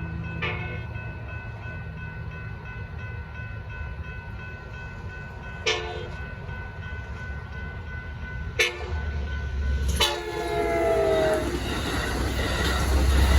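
Amtrak Capitol Corridor train sounding its horn for a grade crossing in four blasts, the last the longest and falling in pitch as it passes, while the crossing bells ring steadily. The train's rumble builds from about nine seconds in as it reaches the crossing.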